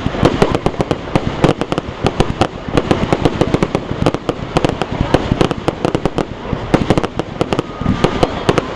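Fireworks display: a dense, irregular run of sharp bangs and crackles, many per second, with no let-up.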